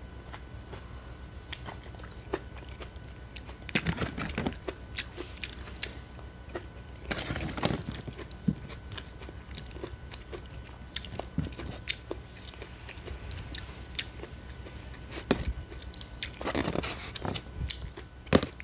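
Close-up chewing and crunching of a mouthful of vegetable and salmon salad, with scattered clicks and a few louder crunching, rustling bursts as a metal spoon digs through the salad in a clear plastic clamshell box.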